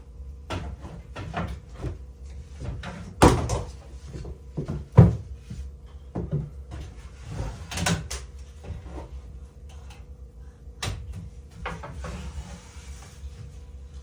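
Irregular wooden knocks and thumps as lumber is handled and fitted, with two heavier thumps about three and five seconds in and some scraping between.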